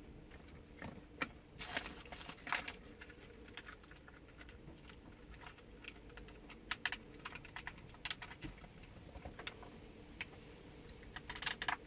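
Scattered light clicks and taps of a small plastic radio-control toy tank being handled and worked by hand, busier about two seconds in and again near the end.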